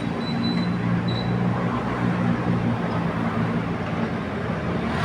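Heavy machinery engine running steadily at a constant pitch, over a steady rushing noise.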